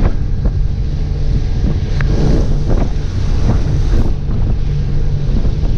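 Motorboat running steadily at cruising speed across a lake, its engine a low steady hum under heavy wind noise on the microphone, with short irregular thumps.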